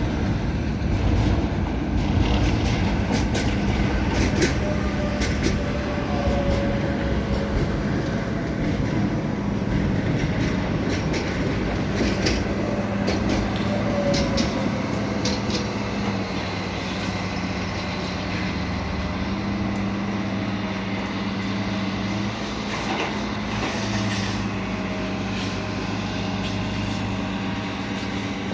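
Steady engine rumble with a low hum, mixed with scattered sharp knocks and clicks.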